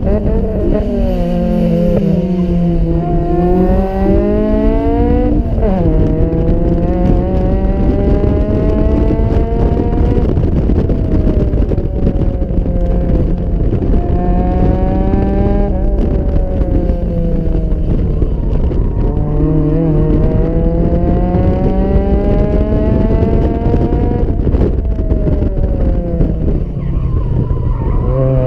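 Toyota KE70's 4A-GE 16-valve four-cylinder engine pulling hard under acceleration. The revs climb for a few seconds and then drop sharply as it shifts up, over and over: about five times, at roughly 5, 10, 16, 19 and 24 seconds in.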